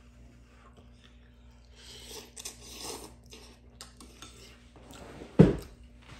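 Close-up eating sounds: chopsticks and dishes clinking and rustling, with chewing. One loud thump comes about five seconds in.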